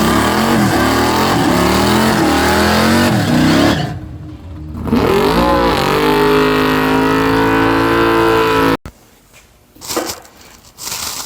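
Car engine revving hard with the pitch rising and falling, easing off about four seconds in, then climbing and holding at high revs until it cuts off abruptly near nine seconds. A few faint knocks follow.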